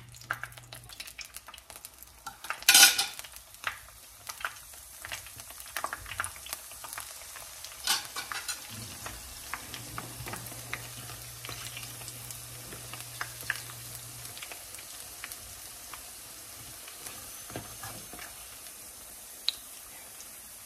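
Wontons frying in shallow hot vegetable oil: a steady sizzle, with clicks and scrapes of a metal fork in the pan and a short loud burst about three seconds in.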